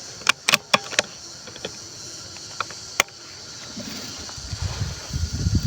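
Insects buzzing steadily, with several sharp clicks about a second in, another at about three seconds, and low thumps near the end.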